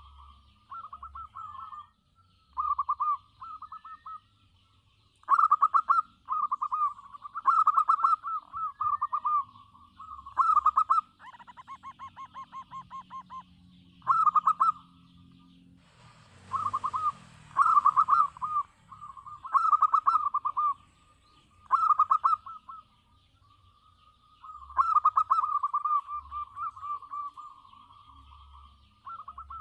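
Zebra dove (perkutut) singing: repeated phrases of rapid trilled cooing, each a second or two long, with short pauses between them. A brief burst of noise comes about halfway through.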